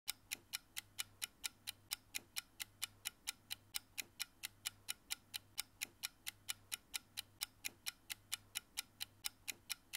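Clock-style ticking sound effect of a quiz countdown timer: a steady tick about four times a second, counting down the seconds left to answer.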